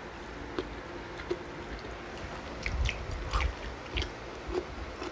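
Close-miked eating: chewing and biting into crispy fried food, with scattered short crunches, the loudest a cluster about three seconds in.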